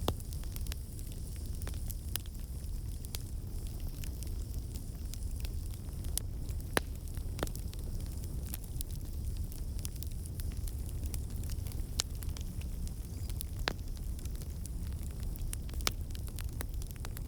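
Wood fire crackling in a fireplace: a steady low rush of flames under a constant scatter of small snaps and pops, with a handful of sharper, louder cracks spread irregularly through it.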